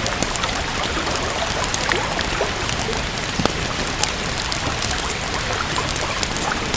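Steady rain mixed with a wood fire crackling, many small sharp pops and drips scattered through it.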